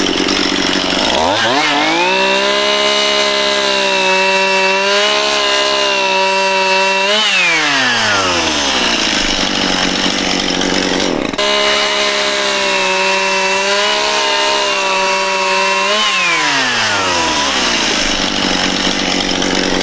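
Chainsaw run twice in a side-by-side cutting test: it speeds up about a second in, holds a steady high pitch while cutting wood, and winds down near seven seconds in. After a break in the recording it runs at speed again and winds down near sixteen seconds.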